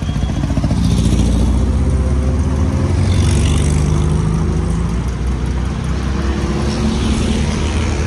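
Air-cooled Volkswagen Beetle flat-four engine running as the car drives past close by, loudest about one to three seconds in, followed by more cars passing.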